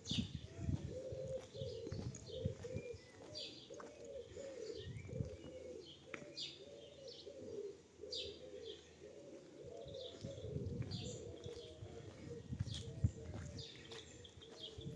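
Pigeons cooing: a continuous run of low coos, each note rising and falling, with short high chirps of small birds scattered over them.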